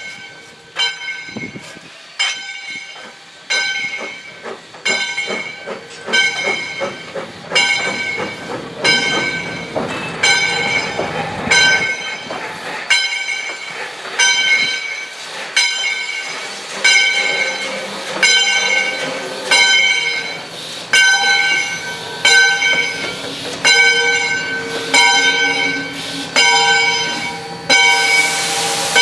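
Steam locomotive bell ringing in a steady rhythm, each stroke ringing on with the same tones. The strokes come faster at first, then settle to about once a second, over the running train.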